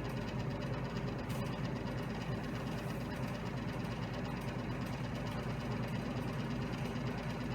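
A small motor running steadily with a low hum and a fast, even flutter or rattle.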